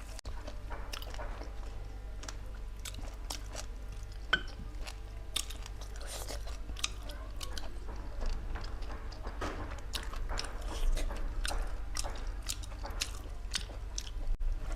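A person chewing and biting food close to the microphone: many short, irregular wet mouth clicks and crunches over a low steady hum.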